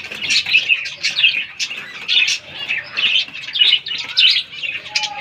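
A flock of captive finches chirping, with many short, high chirps overlapping continuously.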